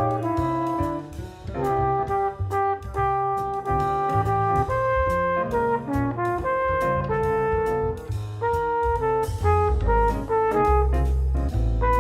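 Jazz played by brass horns over a drum kit: a quick run of short notes with regular drum hits.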